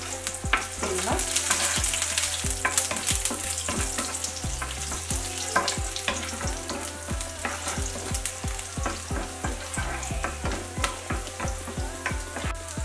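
Chopped ginger sizzling in hot oil in a nonstick frying pan, stirred with a wooden spatula, with many short clicks over a steady hiss.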